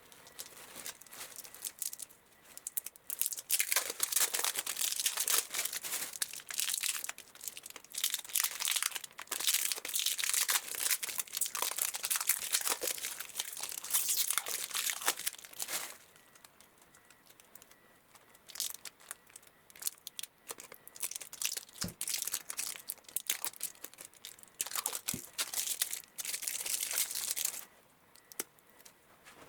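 Dry, scratchy rustling and scraping in long stretches of several seconds, like hand work on a material, with a couple of light knocks near the end.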